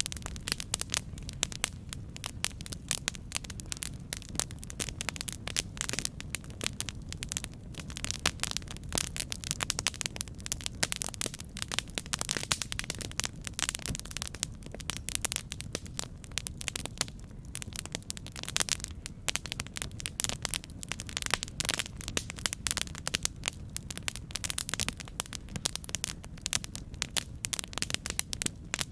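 Campfire crackling: a continuous stream of dense pops and snaps over a low rumble.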